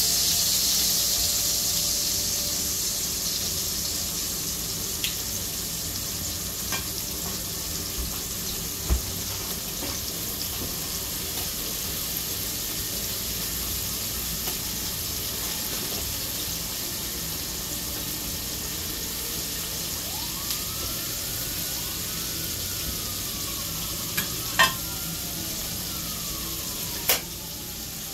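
Chicken tenders frying in hot oil in a cast-iron skillet, a steady sizzle that is strongest at first and eases after a few seconds, with a few sharp clicks of metal tongs and utensils. Near the end a faint siren wails in the background, rising and falling in pitch.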